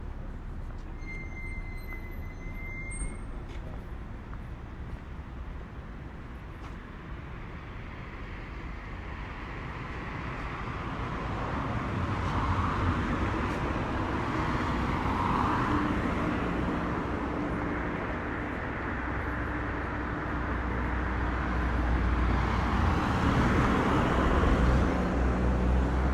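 Road traffic on a city street: a steady low rumble of cars, swelling as vehicles drive past about halfway through and again near the end, with a steady engine hum under the second half. A brief high tone sounds about a second in.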